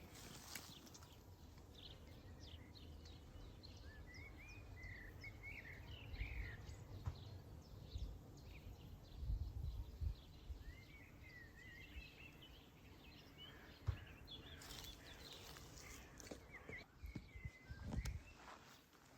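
Faint birdsong outdoors: a songbird sings short warbling phrases, one about four seconds in and another about ten seconds in, with scattered chirps later, over low, uneven background noise.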